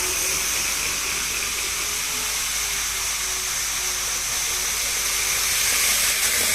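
Model railway 683-series train running on its track: a steady whirring hiss with a faint wavering motor whine underneath.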